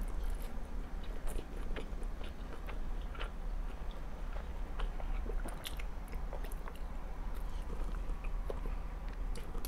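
Close-miked mouth sounds of a person eating spaghetti: drawing in a long mouthful of noodles and chewing, with many small wet clicks.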